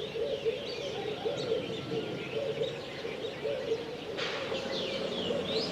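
Birds calling outdoors: many short high chirps and twittering calls over a low, repeated wavering call.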